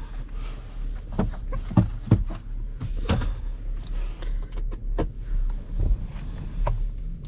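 Scattered clicks, knocks and rattles of a camera or phone being placed and adjusted inside a car's cabin, over a steady low hum from the idling vehicle.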